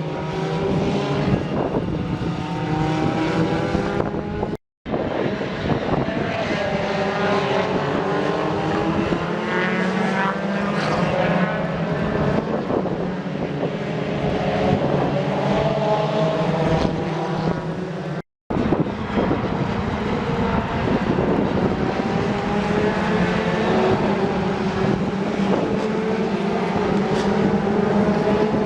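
British Touring Cars racing past, several engines overlapping with their notes rising and falling as they accelerate and brake, over a steady drone. The sound cuts off abruptly twice.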